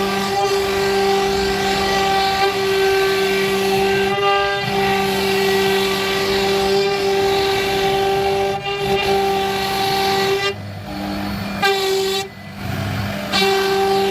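CNC router spindle running with a steady high whine, with brief breaks and dips in the tone as the machine moves between cuts.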